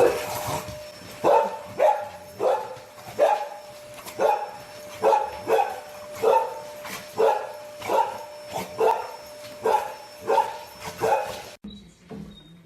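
A dog barking over and over, about two barks a second, stopping abruptly shortly before the end.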